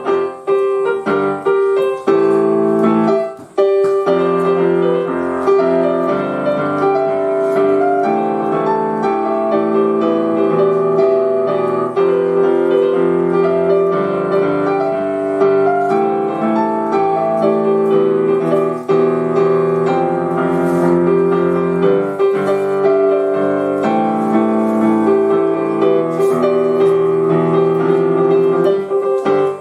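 Station piano being played: a continuous piece of held chords and melody, with a brief break about three and a half seconds in.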